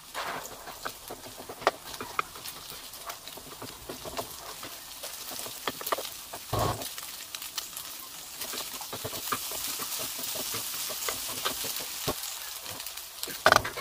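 Egg and sliced sausage sizzling in a nonstick wok while a wooden spatula stirs and scrapes, with many light clicks of the spatula against the pan. There is a duller thump about halfway through and a louder knock near the end.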